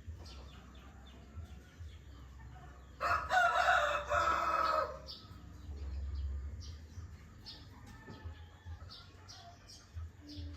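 A rooster crows once: a single call of about two seconds starting about three seconds in, the loudest sound here. Small birds chirp repeatedly throughout, over a low steady rumble.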